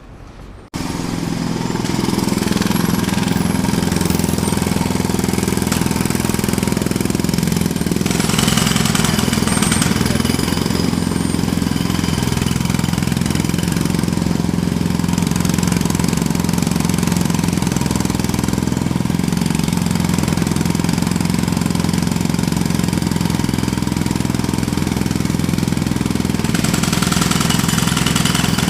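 Jackhammer starting abruptly under a second in, then hammering steadily and loudly without a break.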